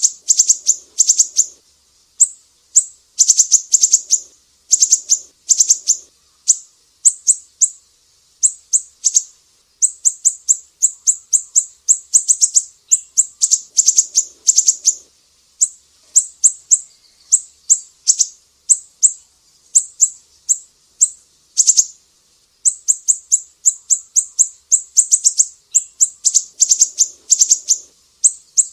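Siri-siri bird singing: rapid runs of sharp, high chirps, each run about a second long, repeated over and over with short pauses between.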